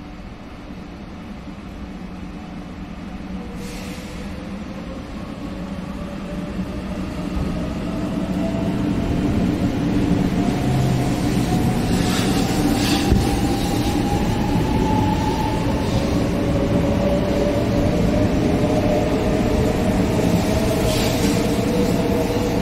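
Shinkansen train accelerating away, its traction motors giving a whine that slowly rises in pitch over a steady rumble of wheels on rail, growing louder for about ten seconds and then holding.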